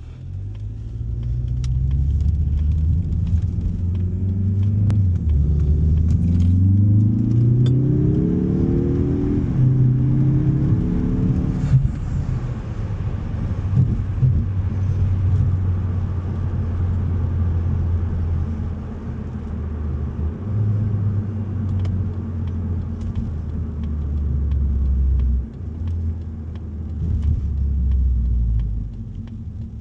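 Mazda 3 Turbo's turbocharged four-cylinder engine running through an aftermarket MBRP exhaust, with a deep, steady note. About five seconds in, the revs climb, drop briefly and climb again, then settle back to a steady low running note.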